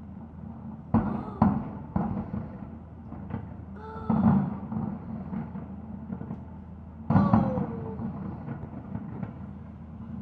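Fireworks shells bursting in a string of dull booms a few seconds apart: about a second in, twice around two seconds, near four seconds and again near seven seconds, the last ones the loudest.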